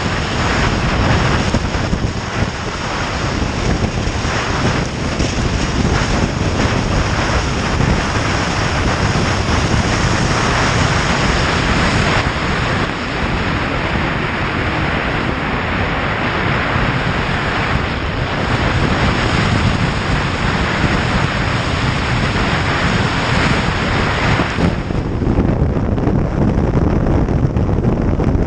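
Wind rushing and buffeting over the microphone of a moving motorcycle, with engine and road noise mixed in underneath. The noise is steady and loud, and eases a little in its upper range near the end.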